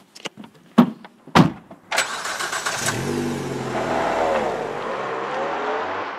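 Two sharp clunks, then a small hatchback's engine starting about two seconds in and the car accelerating away, its engine note rising and falling as it slowly fades.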